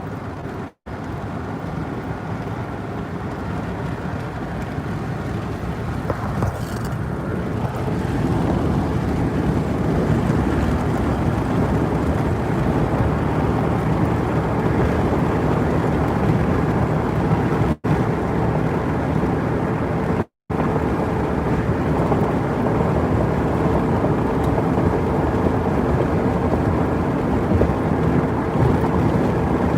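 Steady road and engine noise of a car driving, growing a little louder about eight seconds in, with the sound cutting out briefly three times.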